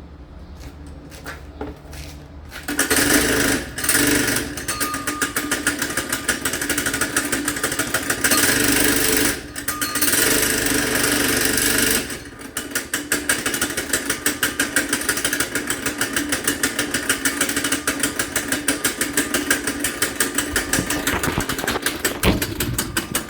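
Small Honda go-kart engine starting from cold on choke about two and a half seconds in, then running with a rapid, even firing beat. It dips briefly a few times before settling into a steady run.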